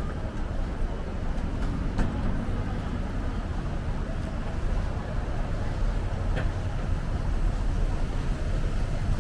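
Steady city street traffic: the low, continuous rumble of passing motor vehicles, with a couple of faint clicks.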